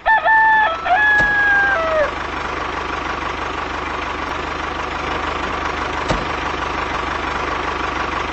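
A rooster crows once for about two seconds, ending in a falling note, over a steady mechanical hum with a faint whine that carries on alone after the crow.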